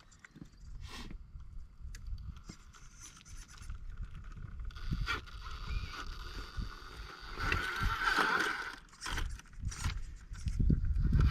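Radio-controlled rock crawler's electric motor and gear drive whining in spurts as it works over the course, loudest a little past the middle, with wind buffeting the microphone.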